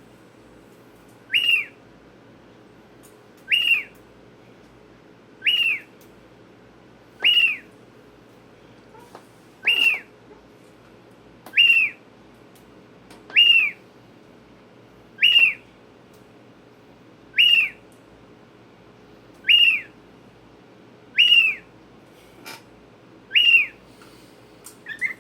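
Cockatiel calling over and over, about a dozen short whistled calls spaced roughly two seconds apart, each a quick note that arches up and then drops.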